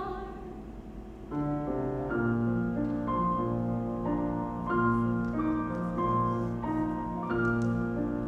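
Solo piano accompaniment playing an instrumental interlude between sung phrases, with chords and a gently moving melody. It enters about a second in, after the singer's held note dies away at the start.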